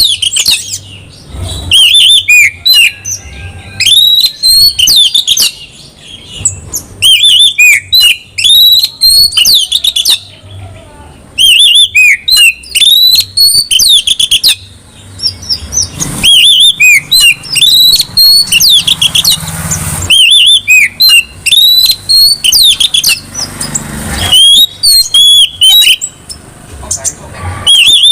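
Oriental magpie-robin (kacer) singing close up: loud phrases of rapid, varied whistles and chirps, each lasting a few seconds, repeated with short pauses between them.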